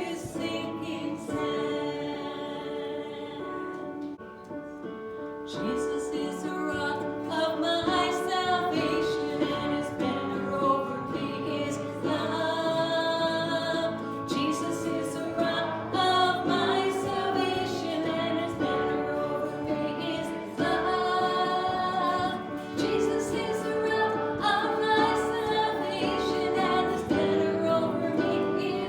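Worship music in a church service: a group of voices singing a song with musical accompaniment.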